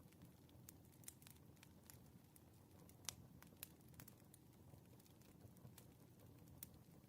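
Wood fire crackling softly, with irregular snaps and pops over a low rumble; one sharper pop about three seconds in.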